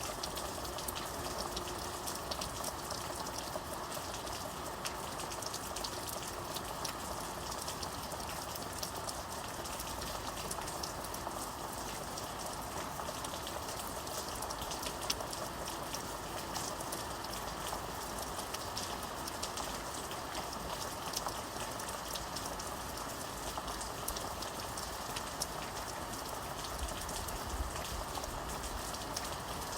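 Steady rainfall, with a constant hiss and many fine, close drop ticks pattering on a surface.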